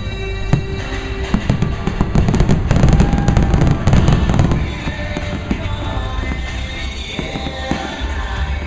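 Fireworks going off in a rapid series of bangs and crackles over music. The barrage is heaviest and most rumbling from about two to four and a half seconds in.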